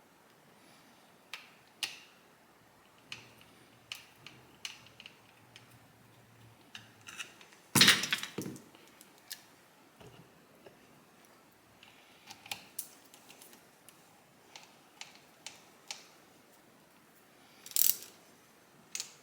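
Light metallic clicks and taps of small carburetor parts and hand tools being handled during bench work on a motorcycle carburetor bank. A louder clatter comes about eight seconds in, and another just before the end.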